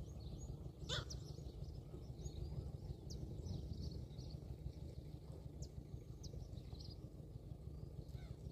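Small birds chirping now and then over a low, steady rumble, with one sharp click about a second in.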